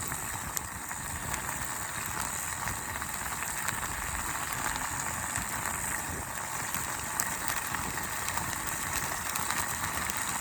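Meat sizzling on a grill over a campfire: a steady hiss with frequent small pops and crackles.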